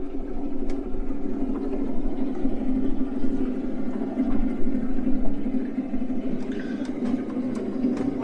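Canal tour boat's motor running steadily, a continuous low drone.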